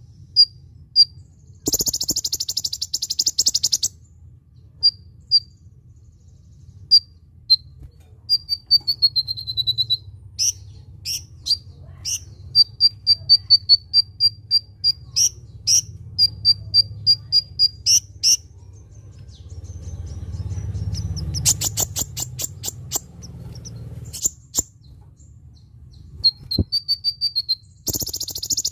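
Kolibri ninja sunbird singing: sharp high chirps and fast runs of repeated notes, broken by dense buzzy trills about two seconds in and near the end. A steady low hum runs underneath.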